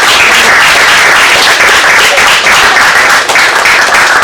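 A small crowd applauding and clapping, dense and loud throughout.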